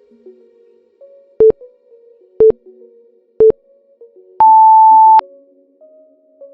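Interval timer counting down: three short beeps a second apart, then one longer, higher beep, marking the switch to the next work or rest interval. Soft background music plays underneath.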